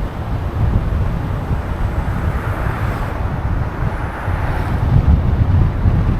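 City street traffic noise with wind buffeting the microphone; the road noise swells about halfway through.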